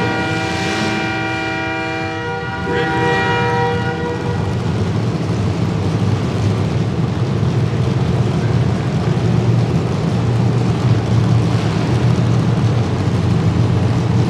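An air horn blows a held, multi-tone blast for about the first four seconds over derby cars' engines running. After that, the engines carry on alone.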